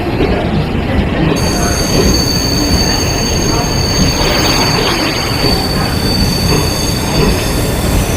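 Train running, a steady rumble joined about a second and a half in by a high, steady wheel squeal.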